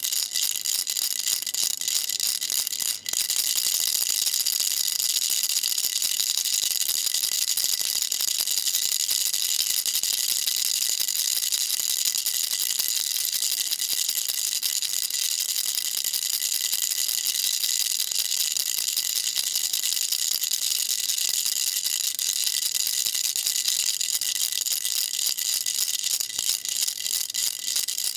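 Baby rattle shaken rapidly and continuously, a dense, bright rattle with a brief gap about three seconds in.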